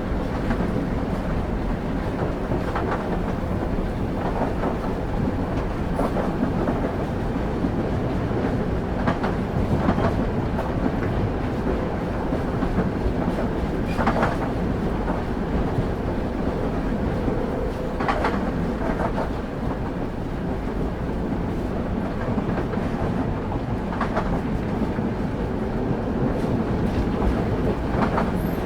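Passenger train running, heard from on board: a steady rumble of the railway wheels, with sharp clicks as the wheels pass over rail joints every few seconds, unevenly spaced.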